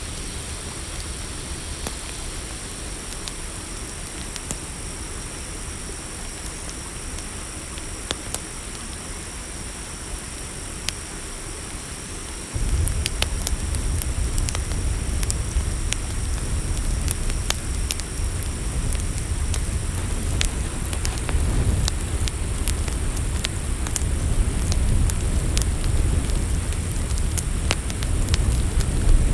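Campfire crackling with scattered sharp pops over a steady chorus of night crickets. About halfway through, a deep low rumble cuts in abruptly and the crackles come thicker.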